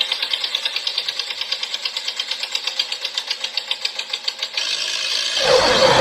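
A small engine or motor running with a rapid, even clatter of about ten beats a second, which changes after about four and a half seconds. Near the end a louder, deeper vehicle sound comes in.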